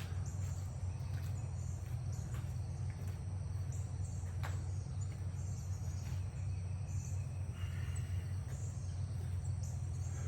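Steady low background hum with faint, high, repeated chirping, and a single sharp click about four and a half seconds in.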